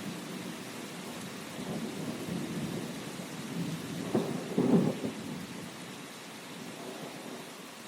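Steady rain with a low rolling rumble of thunder. The rumble swells about four seconds in and dies away toward the end.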